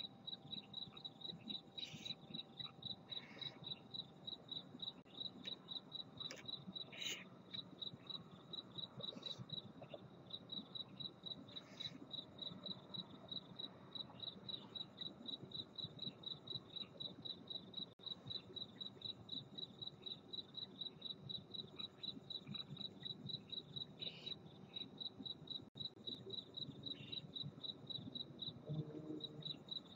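A cricket chirping steadily at night, a high, evenly repeated pulse that never stops, with a few short faint hisses scattered among the chirps.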